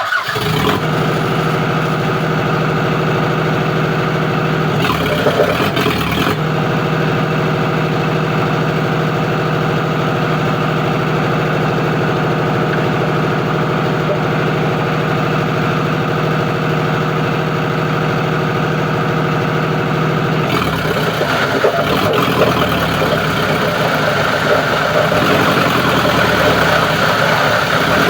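Plastic recycling grinding machine running steadily. Its sound shifts briefly about five seconds in and turns rougher and noisier about twenty seconds in.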